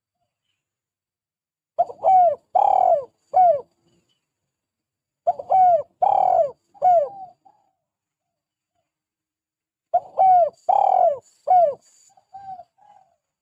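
Spotted dove (tekukur) cooing: three phrases of about four rounded coos each, a few seconds apart, then a few softer notes near the end.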